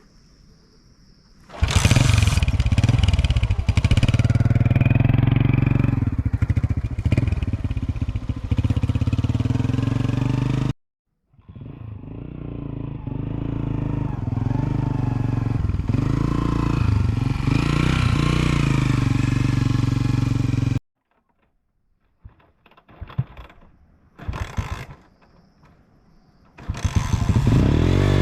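A vehicle engine running steadily, heard in sections that start and stop abruptly: it comes in about two seconds in, breaks off sharply near the middle, resumes, cuts out again, and returns near the end, with a few faint knocks in the quiet gap.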